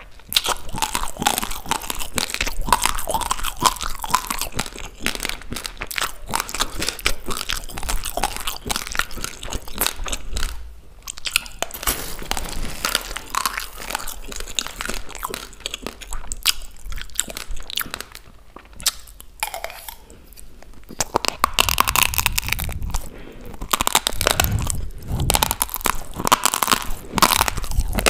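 Uncooked rice grains being crunched and chewed close to the microphone: a dense, continuous crackle of hard grains breaking between the teeth, which eases off briefly twice.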